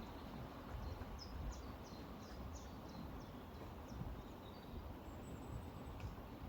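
A small bird repeating short, high, falling chirps, about two a second, with a brief thin whistle about five seconds in. Beneath it runs a low, steady rush of river water.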